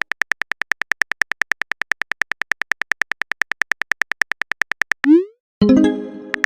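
Rapid, even phone-keyboard tapping clicks, about eight a second, stop about five seconds in. A short rising swoosh follows, then an electronic message chime that fades.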